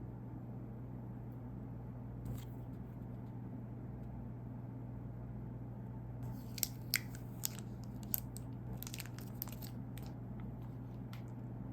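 Plastic snack wrapper being handled and opened: one sharp click about two seconds in, then a cluster of sharp crackles and snaps in the second half, over a steady low hum.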